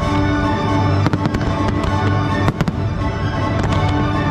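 Fireworks bursting in rapid succession, many sharp bangs scattered through, over loud show music with sustained notes.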